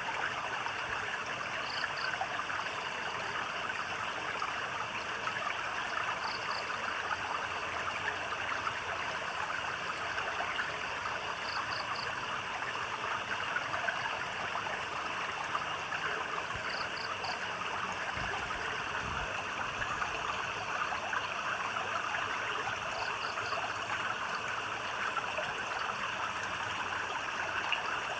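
Stream water flowing and splashing steadily. A small creature's short, high chirp of two or three quick pulses repeats about every five seconds.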